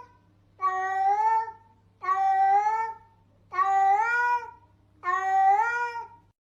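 A cat meowing four times in a row, each a long drawn-out meow of about a second, evenly spaced.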